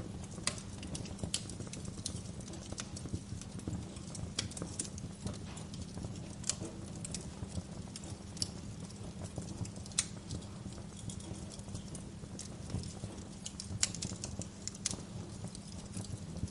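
Wood fire crackling in a fireplace: a steady low rumble of the flames with irregular sharp pops and snaps, a few louder ones scattered through.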